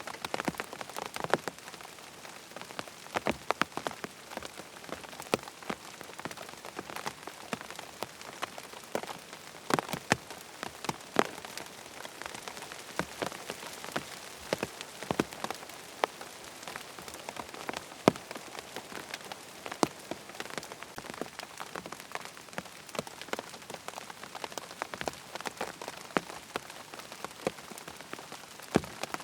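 Steady rain falling on a tent, with many irregular individual drops tapping sharply on the fabric.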